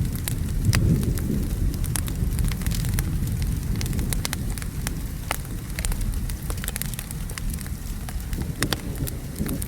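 Wood fire crackling, with frequent irregular sharp pops, over a steady low rumble of rain and distant thunder.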